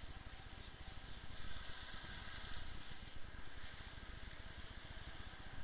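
Umpire motorboat's engine running steadily at low speed, with wind rumbling on the microphone and a steady hiss.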